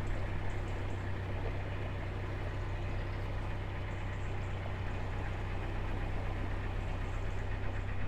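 Narrowboat's diesel engine running steadily at cruising revs, a constant low hum.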